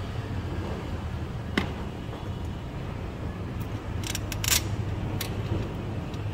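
Mitsubishi Montero Sport engine idling steadily, with its intake manifold, EGR valve and throttle body freshly cleaned and refitted. Several sharp clicks and taps from hands handling the hoses and connectors around the throttle body, the loudest cluster about four seconds in.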